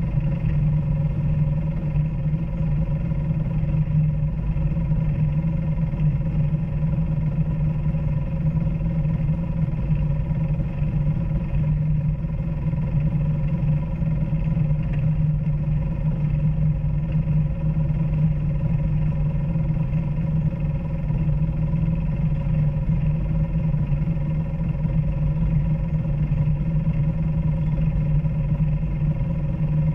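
Off-road vehicle engine running steadily at an even pitch, with a strong low hum.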